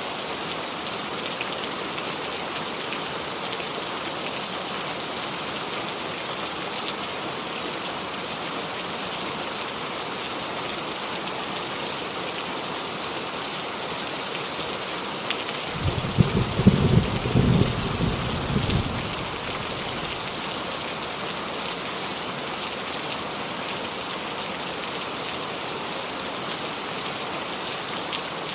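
Steady rain falling on a roof, an even patter throughout. A little past halfway, a low rumble of thunder rolls in for about three seconds, the loudest moment.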